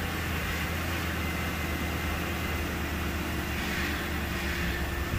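2006 Lincoln's 4.6-litre V8 idling steadily, with a steady tone from the power steering pump: the regular Ford power steering sound, a sign the pump is working normally after the steering shaft repair.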